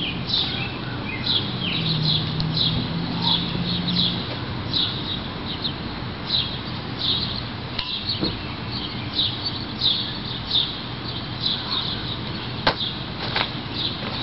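Small bird chirping over and over, one to two short high calls a second, over a steady low hum. A single sharp knock comes near the end.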